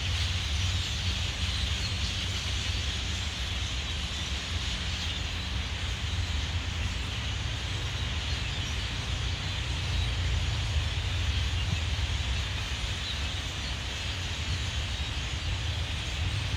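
Continuous din of a huge flock of birds calling all at once, a dense unbroken chatter, over a steady low rumble.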